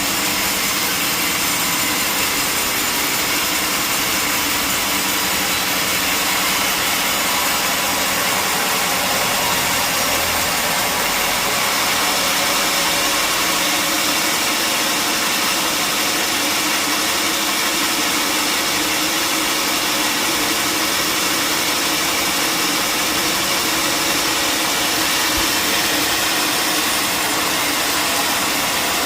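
Sawmill machinery running steadily: a loud, even machine noise with a high hiss and whine that doesn't change.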